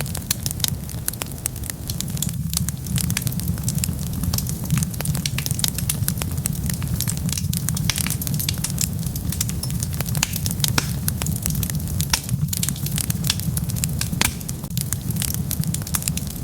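Wood fire burning, crackling with many quick, irregular sharp pops over a low steady rumble of the flames.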